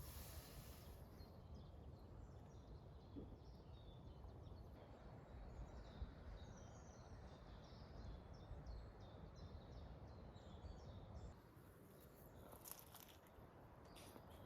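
Faint birds chirping in short, quick high notes over a low steady background rumble. A brief hiss comes at the start and again near the end.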